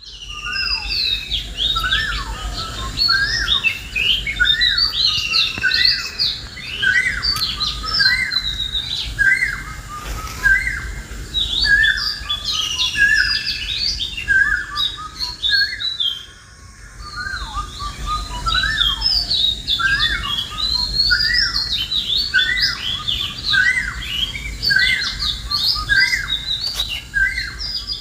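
Many birds chirping and calling at once: a dense chorus of short, quickly rising and falling chirps, thinning out briefly about halfway through.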